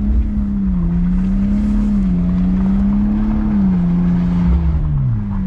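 BMW 128i's 3.0-litre straight-six engine revving hard and held high, its pitch wavering up and down as the rear-wheel-drive car slides in the snow, then dropping away sharply near the end.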